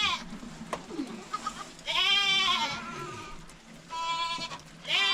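Goats bleating: a drawn-out bleat about two seconds in, a shorter, flatter one around four seconds, and another starting near the end.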